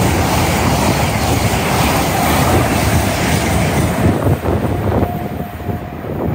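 GWR Intercity Express Train passing through the station, a loud continuous noise of the train running over the rails that fades from about four seconds in as it moves away.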